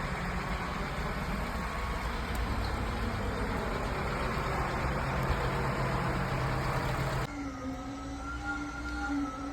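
Wind rushing over the microphone mixed with a motor vehicle's engine running on the street, with a steady engine hum coming through in the middle. About seven seconds in it cuts off abruptly to a quieter, steady humming tone.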